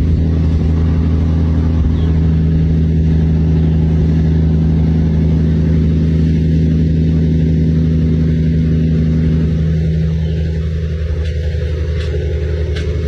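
Heavy truck's engine running at a steady, unchanging pitch, a loud low drone that eases off about ten seconds in.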